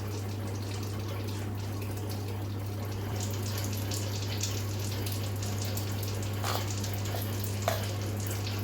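Steady sizzling hiss of masala ingredients roasting in a pan, with a few faint clicks and a constant low hum.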